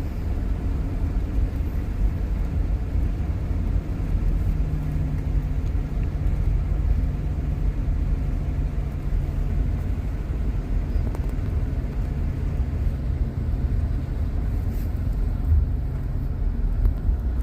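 Car driving steadily at speed: continuous engine and tyre rumble with a low hum, heard from inside the cabin.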